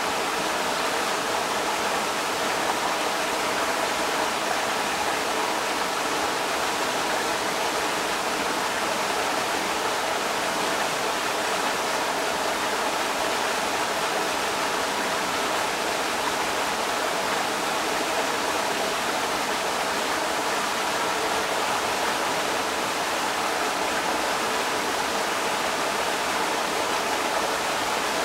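Creek water rushing steadily over rocks: a continuous, even rush of water with no changes.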